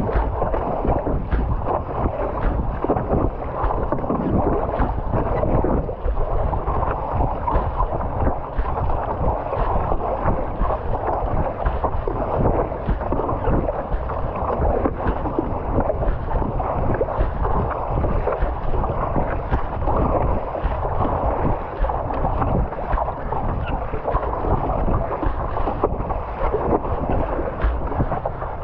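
Wind buffeting the microphone, mixed with water sloshing and splashing around a stand-up paddleboard on choppy sea. The noise is continuous and uneven.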